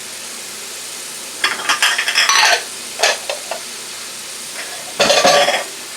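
Diced onions, scallions and red and orange peppers sizzling steadily in an oiled frying pan, with louder bursts of sizzling and stirring about a second and a half in, around three seconds in and near the end as the vegetables are tipped in and moved around.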